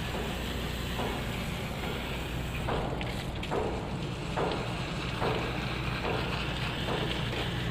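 Pressure washer running: a steady motor hum under the hiss of a water jet, with short louder pulses about once a second as the spray sweeps.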